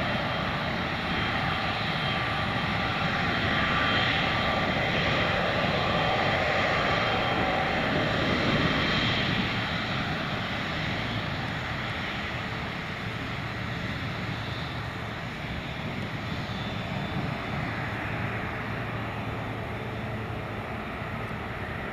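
Jet engine noise from a Boeing 777-300ER's GE90-115B turbofans: a steady rush with faint whining tones. It grows a little louder in the first half, then eases slightly.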